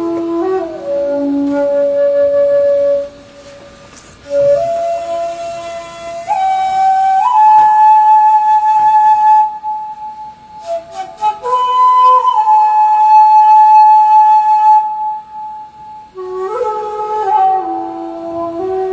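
Solo shakuhachi (Japanese end-blown bamboo flute) playing a slow melody of long held notes, sliding up and down between pitches. There are short breaks about three seconds in and again near two-thirds of the way through.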